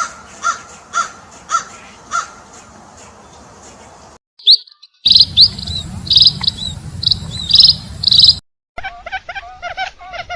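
A string of separate bird-call recordings cut one after another. First come about five calls half a second apart. After a short break there is a run of loud, high chirps over a low rumble, then a fast series of lower calls near the end.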